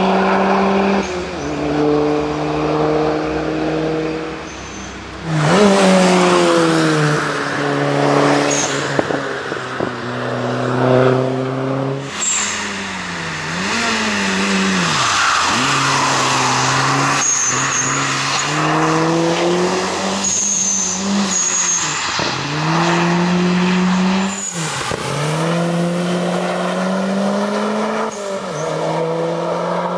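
Subaru Justy AWD's engine being driven hard on a circuit. Its pitch repeatedly climbs under acceleration and drops at each gear change, with slowdowns and pickups through corners and the sound jumping abruptly at a few edits. Brief high squeals come through now and then.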